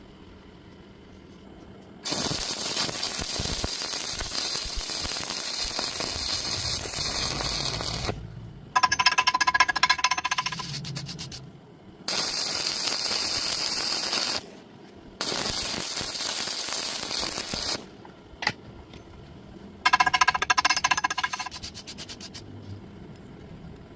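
Arc welding on rebar: the arc crackles and hisses steadily in three runs of several seconds each. Twice in between come short bursts of rapid metallic striking with a ringing tone that fades.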